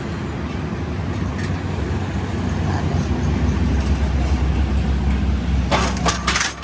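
A motor running with a steady low hum that grows louder about halfway through, then several sharp noisy bursts near the end.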